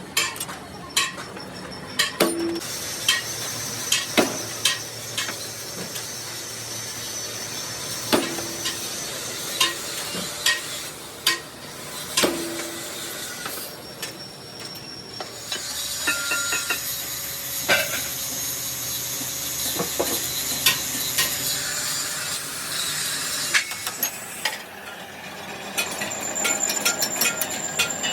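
Steel being worked: irregular sharp metal knocks and hammer-like blows, a few ringing briefly, over a steady high-pitched machine whine that comes and goes.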